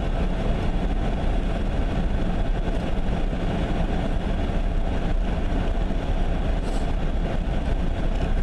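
Pickup truck engine running, heard from inside the cab: a steady low rumble with road and engine noise.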